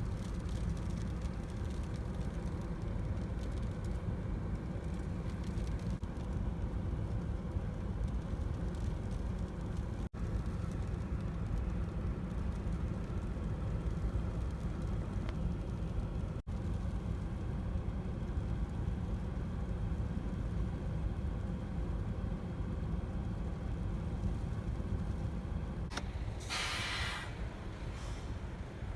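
Steady low rumble of an idling vehicle engine in a car stopped in traffic, with a short hiss about 26 seconds in.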